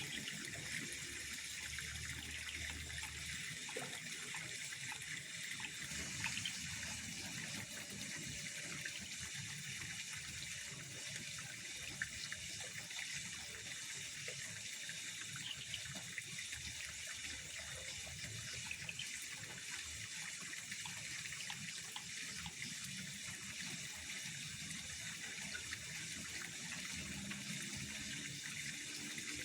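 Steady night-time pond ambience: an even hiss of trickling water, with faint high steady tones and scattered small ticks over it.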